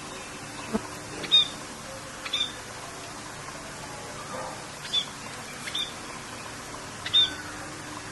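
Songbirds giving short, sharp chirps, about five in all, spaced a second or two apart, over a steady hiss of rain.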